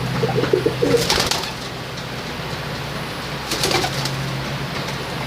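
Tippler pigeons cooing in a loft, with a short coo about half a second in. Sharp clicks come about a second in and again at about three and a half seconds, over a steady low hum.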